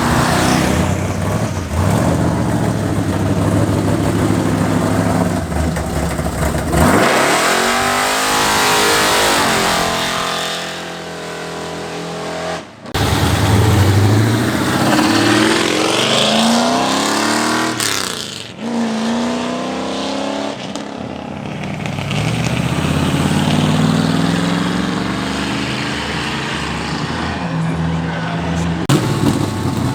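Muscle cars accelerating hard away one after another, engines revving up in rising sweeps, several separate passes with sudden breaks between them.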